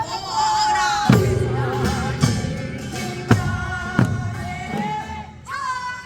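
Korean folk song sung with traditional drum accompaniment. A high sung line is held and bent over several heavy drum strikes.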